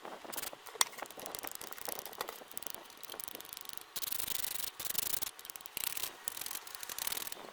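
Scratchy rubbing strokes of hand work on a part, with small clicks and knocks; a denser, louder stretch of rubbing from about four seconds in.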